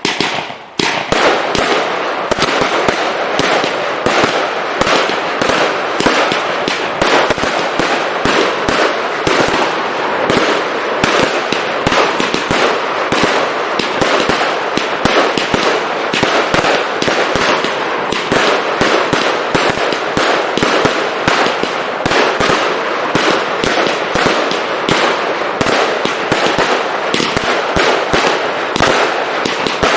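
Prestigious 'Lightning Strike' firework going off: a dense, unbroken run of sharp crackling pops, starting about a second in.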